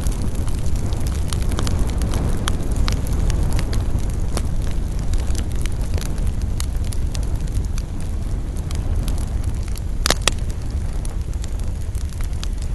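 Campfire burning: a steady low rumble of the fire with frequent sharp crackles, and one louder pop about ten seconds in.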